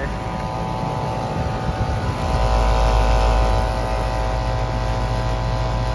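Outdoor air-conditioner condenser units running: a steady motor and compressor hum under the whoosh of the fan. The deep rumble swells from about two seconds in, then eases back.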